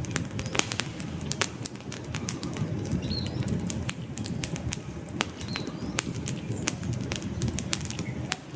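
Wood fire burning in a fireplace: a steady low rush of flames with frequent sharp crackles and pops from the logs.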